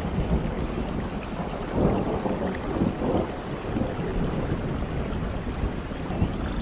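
Steady rain with a low, rolling rumble of thunder that swells about two seconds in.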